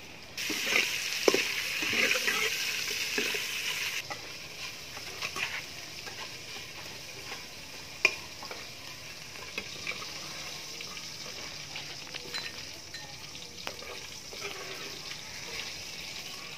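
Food dropped into hot oil in a steel pot sizzles loudly for about three and a half seconds, then settles to a quieter frying hiss. A metal ladle stirring in the pot clinks against it now and then, once sharply about eight seconds in.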